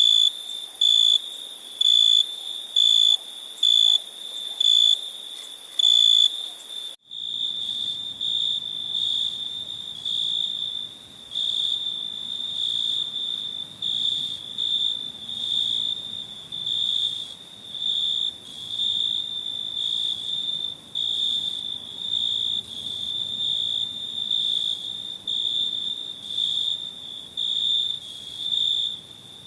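Crickets chirping at night: a high, clear chirp repeating about once a second. After an abrupt cut about seven seconds in, it becomes a near-continuous trill that swells and fades.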